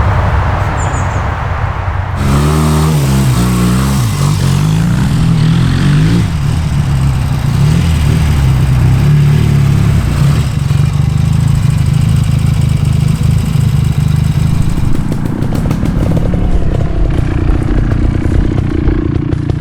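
Trials motorcycle engine revving, its pitch climbing and dropping in quick blips, then running steadily under throttle.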